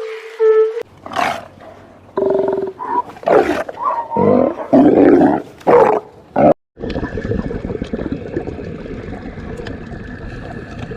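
Farm animal calls: several loud calls in a row, followed near the middle by a sudden cut to a steady background hiss.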